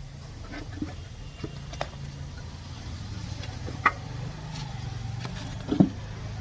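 A few sharp metallic clicks and knocks from tools and engine parts as the bolted-off oil sump is worked loose on a Mahindra Jeeto engine, the loudest about four seconds in, over a steady low background hum.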